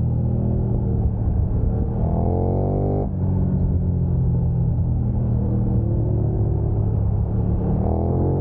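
Sport motorcycle engine under hard acceleration. Its pitch climbs and drops sharply at an upshift about three seconds in, then climbs again toward the end.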